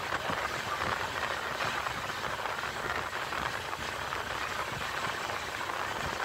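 Passenger train coach running at speed, heard from an open window: a steady rush of wheel-on-rail noise and wind.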